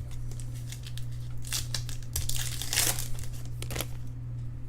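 Baseball card pack wrappers crinkling and tearing as a box of packs is opened, loudest in the middle.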